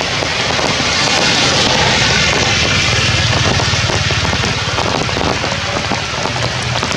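Heavy rain falling steadily, with a dense hiss and scattered patter of drops. A low rumble swells about a second in and eases toward the end.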